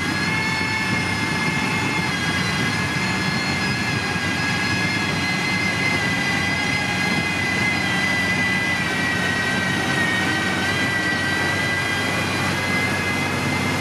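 Heavy diesel road-building machine running steadily, its engine drone overlaid by a high whine that dips slightly in pitch about ten seconds in.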